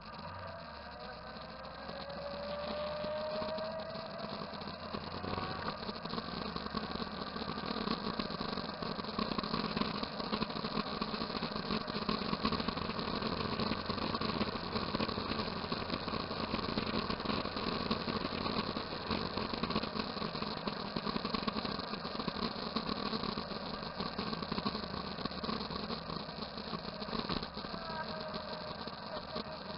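Motorcycle engines running steadily. An engine revs up in a rising whine over the first few seconds and again near the end.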